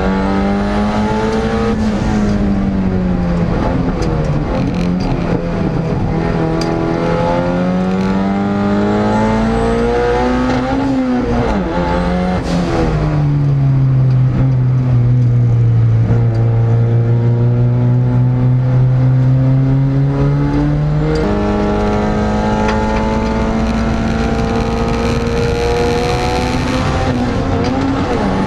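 Turbocharged K-series engine of a Honda S2000 race car heard from inside the cabin, its pitch climbing and falling repeatedly as the car accelerates and brakes. Around the middle there is a stretch of steadier, lower engine note before the rising and falling resumes.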